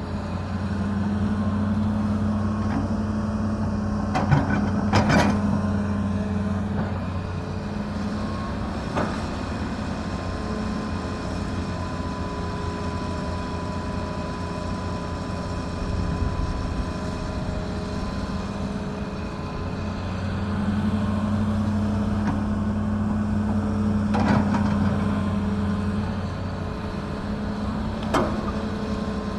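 Excavator's diesel engine running steadily, working up louder twice under hydraulic load. A few sharp knocks come from the machine's work.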